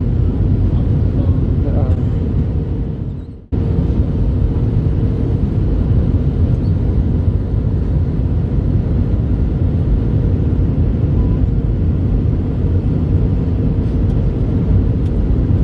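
Steady low rumble of an Airbus A321 heard inside the passenger cabin, engine and airflow noise with a faint steady hum. About three and a half seconds in it fades down and cuts straight back in.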